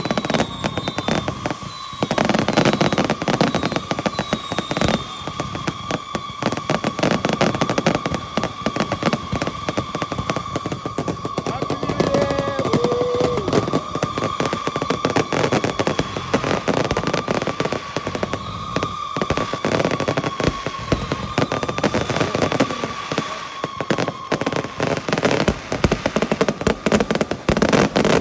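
Firework cakes firing a dense barrage of rapid shots and cracks, with a brief lull about two seconds in. A steady high tone runs under the bangs and fades out near the end.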